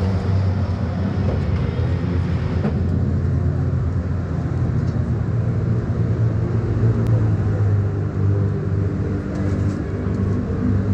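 Steady low hum of car engines running. A higher hiss cuts off about two and a half seconds in.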